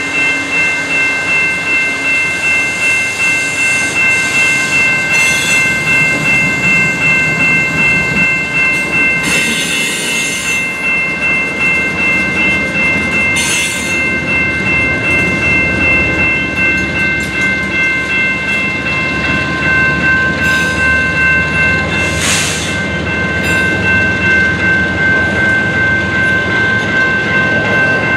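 A BNSF freight train's lashup of diesel locomotives rumbles slowly past a grade crossing, followed by loaded autorack cars, while the crossing bell rings without a break. Short high-pitched bursts from the train come about ten seconds in and again a little after twenty seconds.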